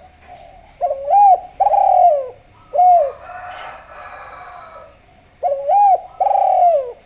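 Spotted dove (Javanese derkuku) cooing in phrases of rising-and-falling notes: two coos, a single coo, and then two more near the end. A fainter, rougher call sounds in between.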